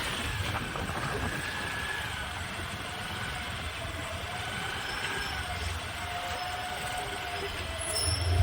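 Road traffic: a steady hum of vehicle engines and road noise, with a faint drawn-out tone in the later seconds and an engine rumble growing louder near the end.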